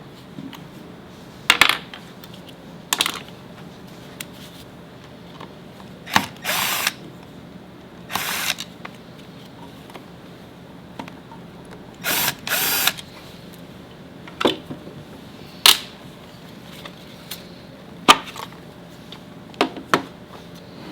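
Handheld power tool, drill or driver type, run in about ten short bursts spread apart, with sharp clicks at the start of several.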